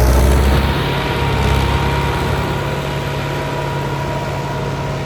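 Tractor engine running steadily, loudest for about the first second and then settling to an even drone.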